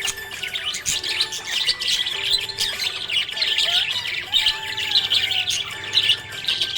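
Small pet parrots chirping and chattering together in dense, rapid, overlapping chirps, with a few short gliding calls among them.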